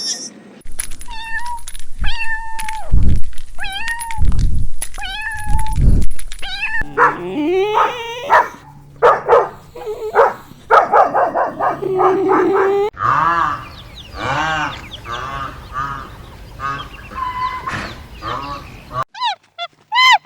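Cats meowing: a run of short, repeated meows from several separate recordings, with a few low thumps in the first few seconds.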